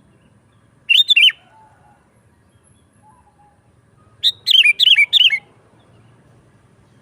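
Sooty-headed bulbul singing: a short phrase of about three quick notes about a second in, then a longer phrase of about six notes about four seconds in.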